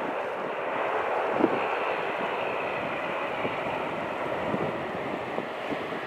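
Steady rushing noise of an Embraer 190 airliner's turbofan engines during its landing, with wind buffeting the microphone.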